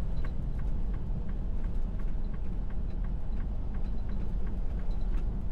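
Steady low rumble of a semi-truck's engine and road noise inside the cab while driving, with a few faint ticks over it.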